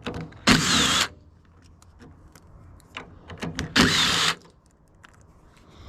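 Cordless power drill running in two short bursts, each about half a second long, with small clicks and handling knocks between them.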